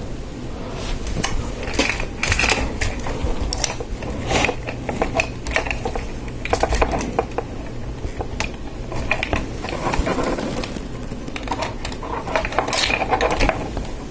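Hard plastic Lego Technic pieces clicking, rattling and scraping against each other in irregular short bursts as a large assembly is handled and pushed into place.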